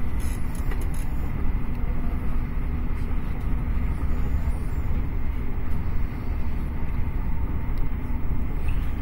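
Steady low rumble of a passenger train running at speed, heard from inside the carriage: wheels rolling on the rails with no separate knocks or announcements.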